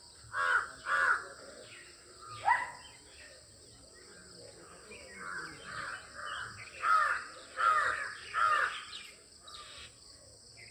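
A bird giving harsh, cawing calls: a pair about half a second apart, a single sharp upward-sweeping call, then a run of about six calls whose last three are the loudest.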